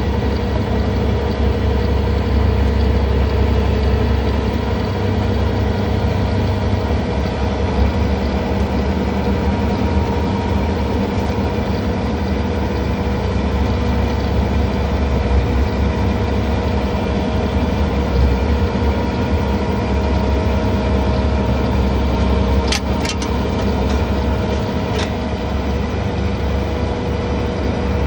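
John Deere 317 skid steer's diesel engine running steadily at high throttle, with a steady whine riding on the engine noise while the snow blower works. A few sharp clicks come near the end.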